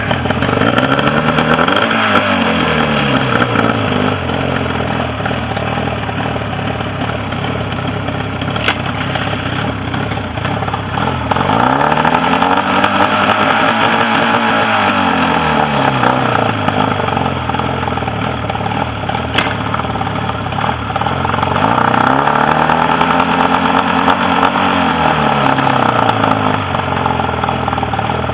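Mercury 40 two-cylinder outboard engine running, revved up and eased back three times and settling back to a steady idle between. It is firing on both cylinders and holding an idle, its earlier dead bottom cylinder now fixed.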